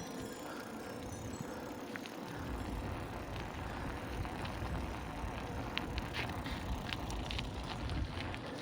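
Bicycle in motion: steady tyre and wind noise with a fluctuating low rumble, and scattered sharp clicks and rattles from the bike from about halfway in.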